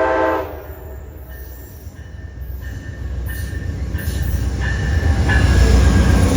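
Amtrak passenger train's horn sounding and cutting off about half a second in, then the train rumbling closer and growing louder, with faint wheel squeal.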